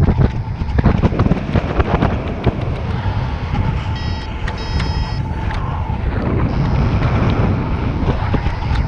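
Strong wind buffeting the microphone in paraglider flight: a heavy, gusty rumble. A faint steady tone runs underneath, and two short electronic beeps come about four seconds in.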